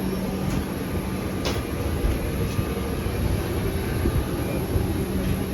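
Steady background rumble and hiss with a faint high whine running through it, and a light click about a second and a half in.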